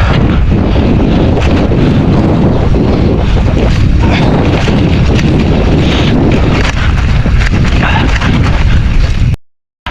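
Mountain bike riding a rough dirt trail at speed: loud wind buffeting the microphone over the rumble and clatter of tyres and bike on the ground. The sound cuts out completely for about half a second near the end.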